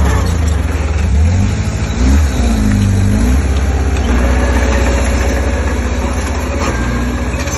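Diesel engine of heavy earthmoving machinery running steadily, its pitch dipping and rising again about two seconds in.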